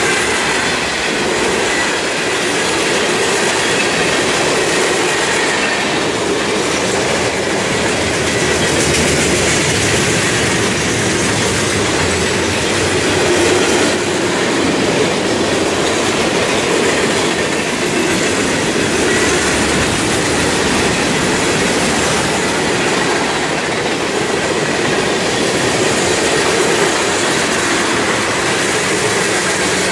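Loaded freight train cars rolling past close by: a loud, steady rumble and clatter of steel wheels on the rails that does not let up.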